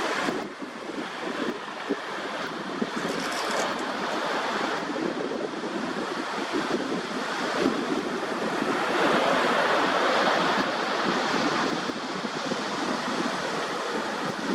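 Small sea waves washing and lapping at the shoreline close by, a steady hiss of surf that swells louder for a few seconds past the middle.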